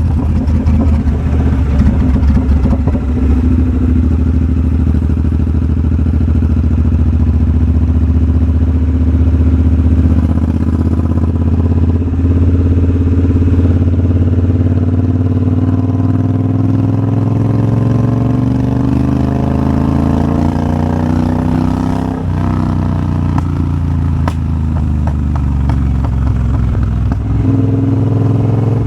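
Triumph Bobber's 1200 cc parallel-twin engine under way in third gear: its note climbs slowly for several seconds as the bike gathers speed, then drops sharply when the throttle is shut about two-thirds through, and settles into a steady run before opening up again near the end.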